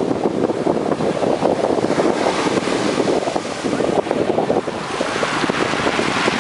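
Black Sea surf washing on the shore in a steady rush, with wind buffeting the microphone.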